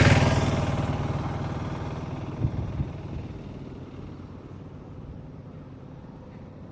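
A motor vehicle passing close by just as the sound begins, its engine note fading steadily as it moves away, with two short knocks about two and a half seconds in; a faint low road rumble remains near the end.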